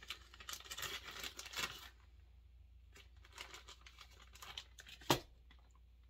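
Rustling and crinkling as small parts are handled for about two seconds, then a few light clicks and one sharp click about five seconds in.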